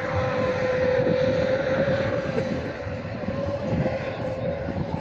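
A loud engine holding a high, steady pitch that drifts slightly up and back down, over a broad rumble.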